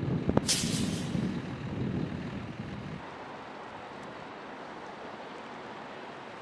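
Strong wind buffeting the microphone with a rumbling rush, a short sharp hiss about half a second in, then a steadier, quieter rush from about three seconds on.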